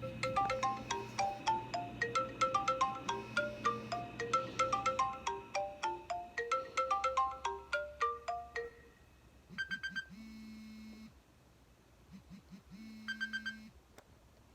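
iPhone 5s ringtones playing from the phone's speaker. First comes a quick, bright melody of mallet-like notes for about nine seconds. Then a different ring sounds twice: a short burst of rapid ticks followed by a held buzzy tone.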